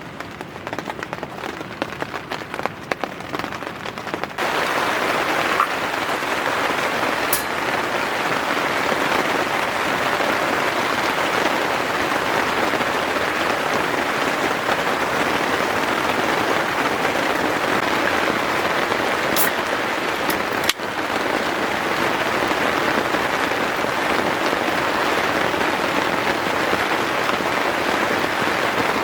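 Rain falling. For the first four seconds or so it is a scattered patter of separate drops. Then it changes abruptly to a dense, steady downpour hiss that runs on, broken by a brief dip about two-thirds of the way through.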